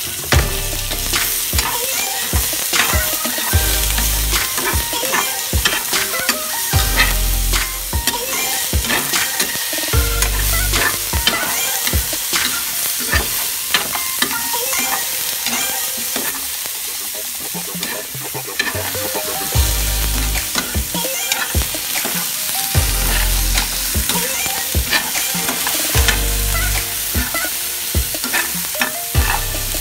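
Chicken pieces frying and sizzling in a non-stick frying pan while a metal turner stirs and flips them, with many sharp clicks and scrapes of metal against the pan.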